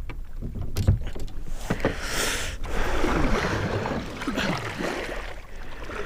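Paddling a sit-on-top fishing kayak: water splashing from the strokes, with a few sharp knocks against the plastic hull.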